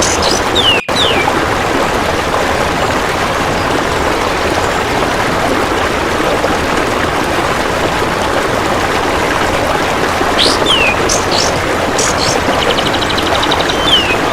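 Steady running water with bird calls over it: short downward-sliding whistles and high sharp chips a few times, and a brief rapid, evenly ticking trill of a golden grasshopper shortly before the end. The sound cuts out for an instant just under a second in.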